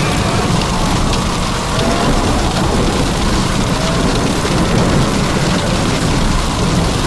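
Heavy rain pouring steadily in a thunderstorm, with a continuous low rumble underneath.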